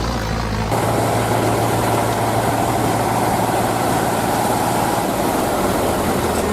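Tractor engine running steadily, with a sudden change under a second in from a smooth low hum to a noisier, rougher engine sound.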